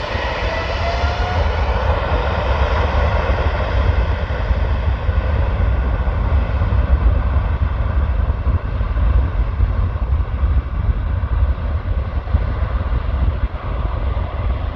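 Jet airliner engines at takeoff power: a loud, steady deep rumble, with an engine whine that rises in pitch over the first second or two.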